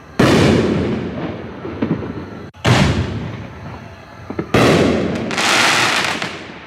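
Fox Koto Ring Shells artillery shells bursting in the air: three loud bangs about two and a half and two seconds apart, each dying away. The last leaves a long hissing tail.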